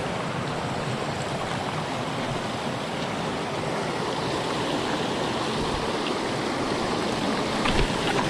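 Steady rush of a rocky mountain stream tumbling over stones, with a couple of light knocks near the end.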